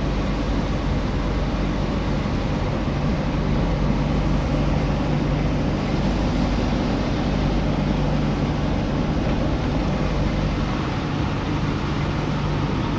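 A car being driven at a steady pace: engine and road noise without a break, with a steady low hum.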